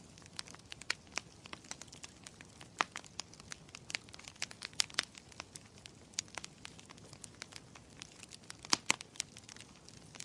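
Logs burning in a fireplace, crackling with irregular sharp snaps and pops over a soft low hiss. A couple of louder pops come near the end.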